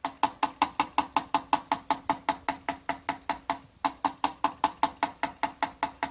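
A rapid, even series of sharp tapping clicks, about five a second, each with the same ringing tone, with a short break a little before the four-second mark.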